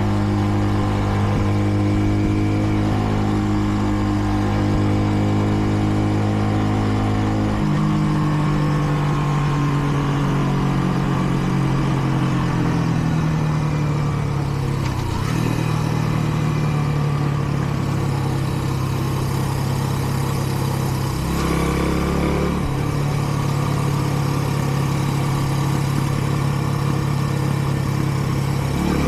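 Kreidler Dice CR 125 motorcycle's single-cylinder four-stroke engine running under way at moderate revs, in its running-in period. The engine note changes pitch about eight seconds in and again around two-thirds of the way through as the rider shifts or changes throttle, with road and wind noise beneath.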